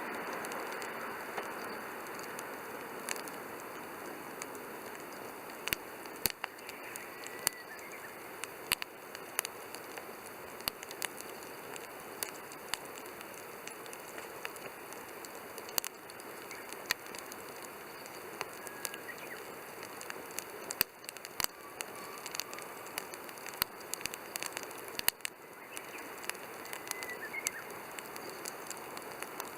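Wood campfire burning: a steady hiss with irregular sharp crackles and pops.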